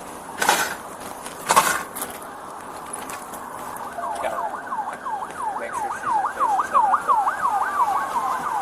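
Two short bursts of noise early on, then an emergency vehicle siren comes in about four seconds in, a fast rising-and-falling yelp about three cycles a second, with a slower falling wail from a second siren overlapping near the end.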